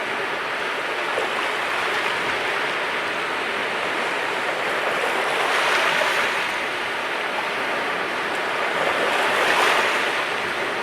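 Sea waves washing ashore in a steady rush of surf. It swells louder twice, about halfway through and again near the end.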